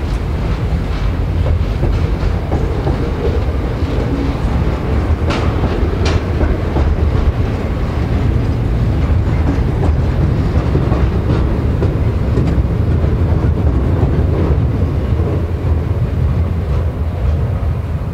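Container-laden freight wagons rolling past close by: a steady low rumble of steel wheels on rail, with scattered clicks and knocks, two sharper ones about five and six seconds in.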